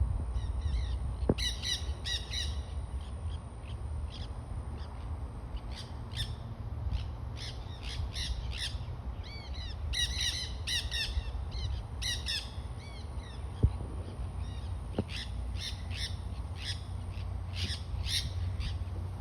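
A flock of parrots calling: harsh, repeated squawks and screeches, often overlapping, coming in flurries with short gaps, over a steady low rumble.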